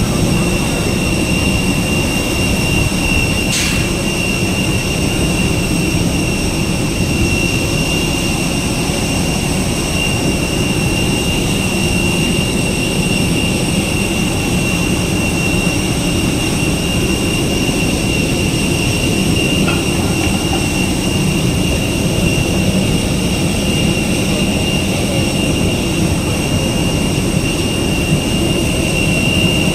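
Jet aircraft engines running steadily: a constant loud rumble with a steady high-pitched whine over it.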